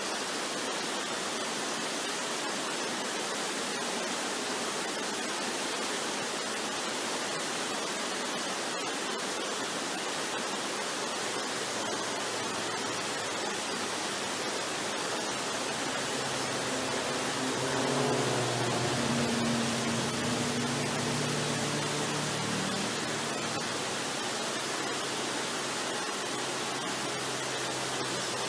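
Steady rushing of a waterfall, with soft low sustained music notes swelling in around the middle and fading toward the end.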